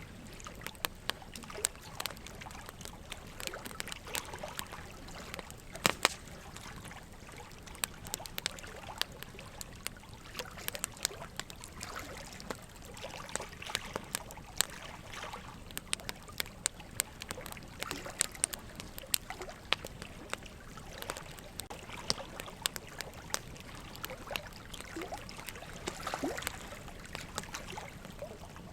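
Wood campfire crackling and popping, with irregular sharp snaps over a steady low hiss. One louder pop comes about six seconds in, and a brief whistle near the end.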